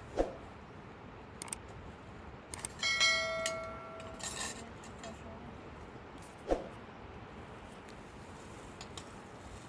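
Metal kitchenware clinking: one ringing strike about three seconds in that fades over a second, followed by a short clatter, with a dull knock near the start and another about six and a half seconds in.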